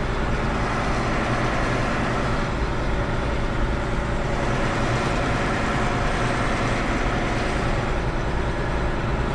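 Semi truck's diesel engine running steadily at low speed, heard from inside the cab as a constant low rumble.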